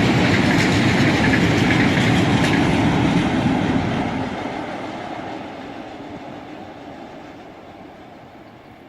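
Freight train wagons rolling past with clattering wheels, then fading away steadily from about four seconds in as the train moves off.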